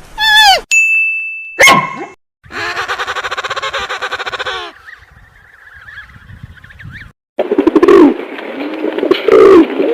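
A run of different animal calls, one after another. It starts with a short call that rises and falls in pitch and a brief steady tone, then a rapid trill of about ten pulses a second, faint chirps, and loud repeated calls from about three quarters of the way in.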